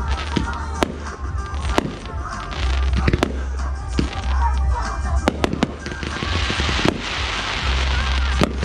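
Aerial fireworks shells bursting in an irregular series of sharp bangs, about one or two a second, with a denser stretch of crackle about six seconds in.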